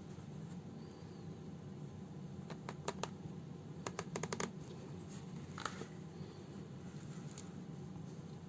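Small clicks and taps from handling a house slipper while hand-sewing it with needle and thread: a quick run of clicks about three seconds in, another about four seconds in, and a single one near the middle, over a steady low hum.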